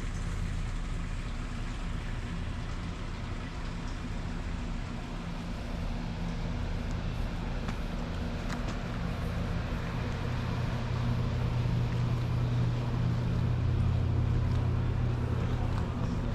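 Low, steady machinery hum with a few held low tones over a hiss, growing somewhat louder about ten seconds in.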